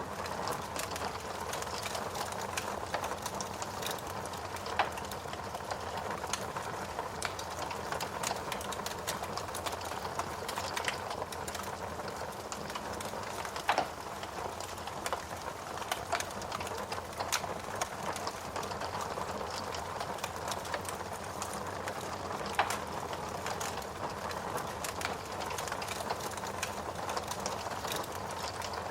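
Fireplace fire burning, crackling steadily with many small snaps and a few louder pops over a steady hiss.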